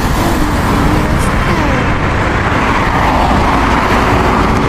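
Lifted off-road SUV's engine working as it crawls over rocks and mud, under a dense, steady rush of noise.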